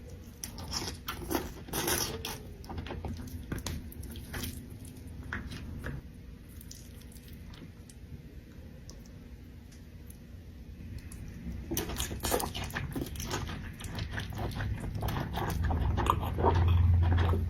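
Close-miked mukbang eating sounds from a seafood boil: crunching, biting and chewing in quick bursts, easing off for a few seconds in the middle before starting again. A low hum rises near the end.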